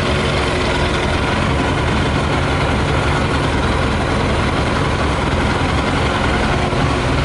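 Yamaha YZF600R's inline-four engine idling steadily while running on 40% whisky in place of petrol.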